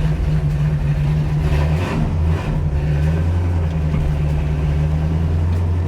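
The 455 V8 of a 1975 Pontiac Trans Am, fitted with headers, running under way while driving, heard from inside the cabin. It has a steady low drone, with a brief dip and a change in the engine note about two seconds in.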